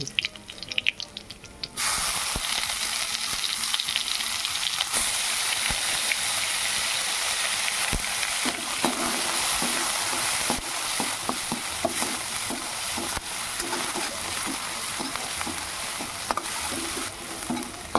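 Chopped onion frying in hot oil with garlic in a kadhai: a loud, steady sizzle that starts suddenly about two seconds in. A metal slotted spatula clicks and scrapes against the pan as it stirs, mostly in the second half.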